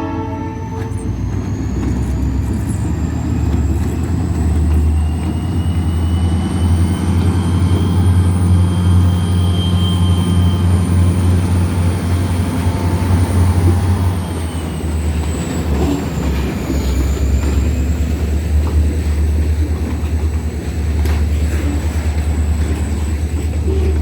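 Train rolling past: a steady low rumble from the locomotive and cars, with a faint high whine that slowly drifts in pitch.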